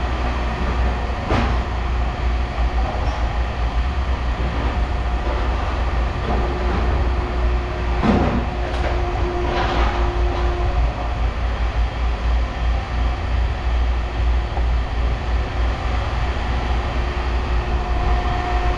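Steady low rumble with a faint hum, broken by a few sharp clanks of scrap metal being handled, about 1.5 s in and again around 8 to 10 s in.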